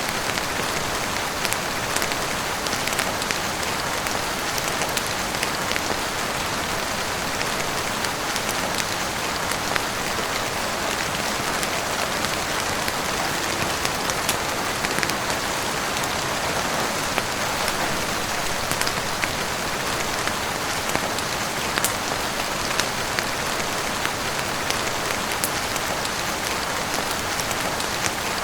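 Heavy rain falling steadily, a dense even hiss with many sharp ticks scattered through it.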